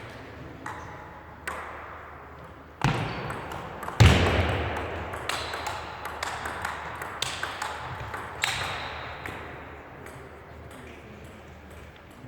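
Table tennis ball clicking back and forth off the bats and table in a rally, the clicks ringing in a large hall. Two louder thumps come about three and four seconds in, and the clicks fall off near the end.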